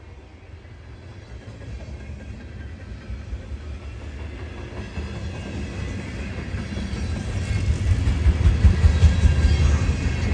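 Freight train approaching, its low rumble growing steadily louder, with rattling from the cars coming in near the end.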